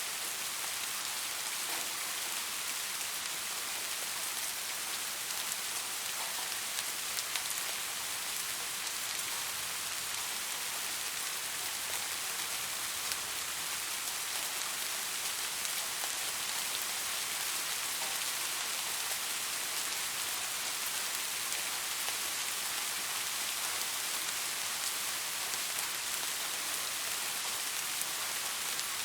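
Steady rain falling, a dense even hiss of drops pattering on a surface, with no letup or change.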